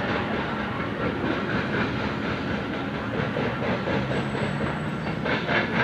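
Freight train cars rolling past, a steady rumble of wheels on rail, with a run of sharp wheel clicks near the end.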